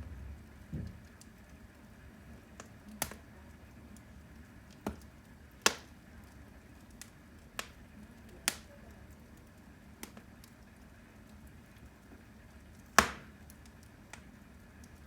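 Firewood burning in a fireplace, crackling over a faint steady hiss, with about ten sharp pops at irregular intervals. The loudest pop comes near the end.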